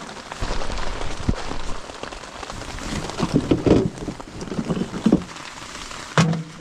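Heavy rain falling steadily, with rustling and knocking sounds of handling about halfway through and a short sharp sound near the end.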